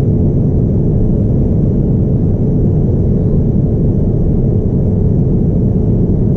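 Steady cabin rumble of a Boeing 787-9 Dreamliner in flight: an even, low noise of engines and airflow heard from a seat over the wing.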